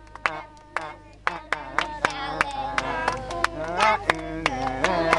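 Group of children singing a song in an African language together, with hand clapping in a steady beat of about three or four claps a second; the singing is thin at first and grows fuller about a second in.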